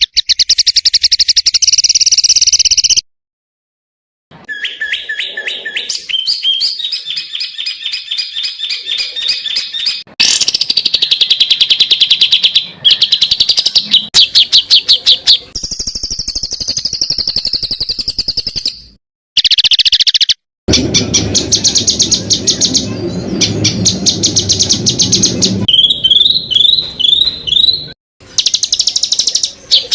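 Songbirds giving dense, rapid-fire trills and repeated chattering notes, the quick 'tembakan' phrases used to tutor caged songbirds. Several different songs are spliced together, with abrupt cuts and brief silences between them.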